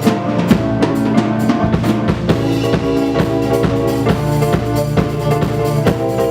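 Live band playing an instrumental passage between sung lines: a drum kit keeps a steady beat with bass drum and snare, under sustained bass and melodic parts.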